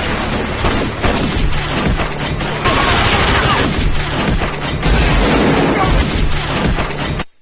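Film soundtrack gunfire: a dense, sustained volley of shots with booms and crashes over music, cutting off abruptly near the end.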